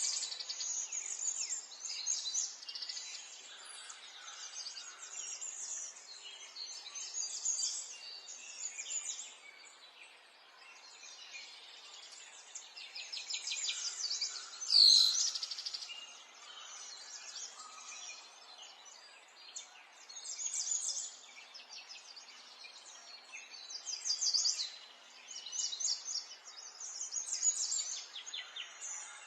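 Several songbirds singing and chirping over one another, with trills and twittering phrases in quick succession. A sharp click about halfway through is the loudest sound.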